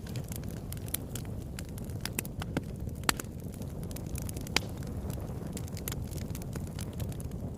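Fire in a fireplace crackling: a steady low rumble of flames with frequent small snaps, and two sharper pops about three and four and a half seconds in.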